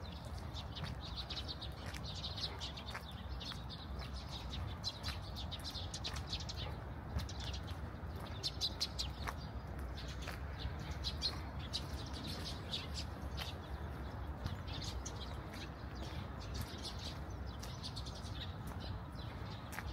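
Small birds chirping again and again over a steady low city rumble, with scattered light clicks.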